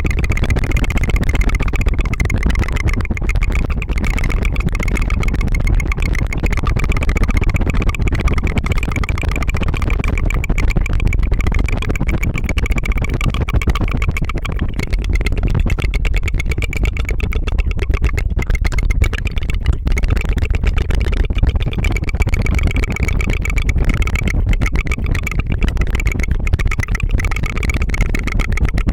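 Close-miked tongue fluttering: a fast, continuous trilled 'trrr' mouth sound made without a break.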